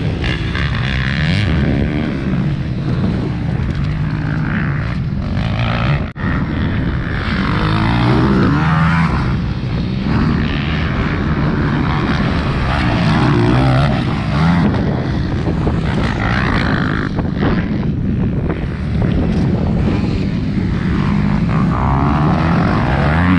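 Several 250cc motocross bikes' engines revving and running hard, their pitch rising and falling as the riders work the throttle.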